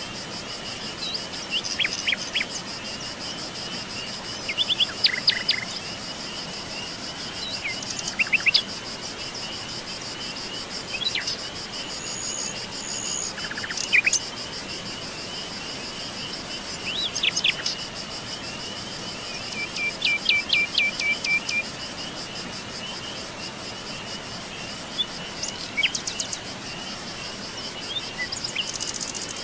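Wild birds chirping and calling in short scattered notes, with a quick rapid trill about two-thirds of the way through, over a steady high-pitched chorus of insects.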